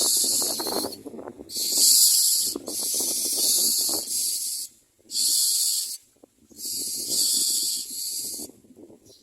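Myna nestlings giving harsh, hissing begging calls in repeated bursts of about half a second to a second, with short gaps between them, over a lower crackling rustle.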